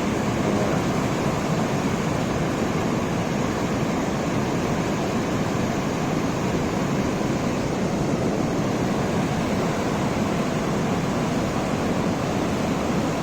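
Steady rushing of a fast, storm-swollen river.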